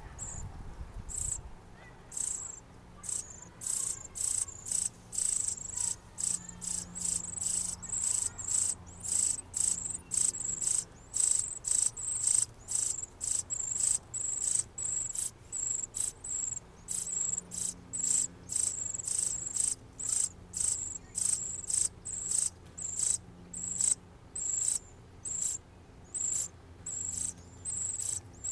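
Northern cardinal nestlings begging at the nest: rapid, very high, thin cheeps, about two or three a second, uneven in spacing and loudness, while the adult female leans over them.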